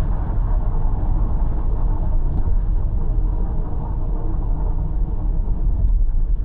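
A car driving along: steady low rumble of tyres and engine.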